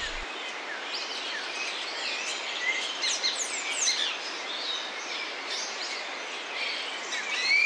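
Several small birds chirping and calling, with short quick notes and sweeps, over a steady background hiss. A held high note comes in near the end.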